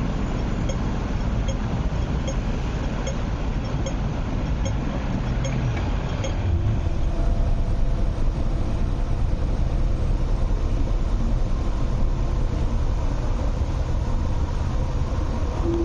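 MTR East Rail Line electric train running along the track: a steady rumble with regular light clicks about once every 0.8 seconds. About six seconds in, this gives way to a steadier, somewhat louder ride noise heard from inside a moving train, with faint steady tones over the rumble.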